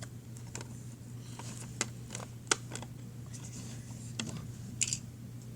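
Scattered light clicks and taps of small plastic toy figures and props being handled and set down, over a steady low hum.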